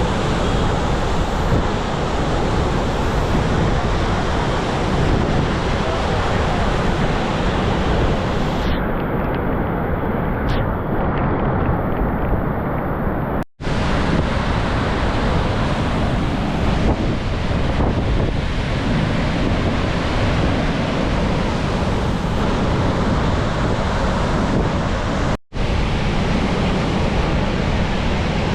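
Flood water rushing from the open gates of a dam spillway: a loud, steady roar of falling water that cuts out briefly twice.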